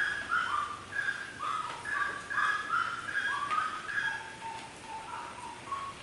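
Birds whistling: a steady run of short, clear whistled notes, several overlapping at different pitches, some sliding up into the note.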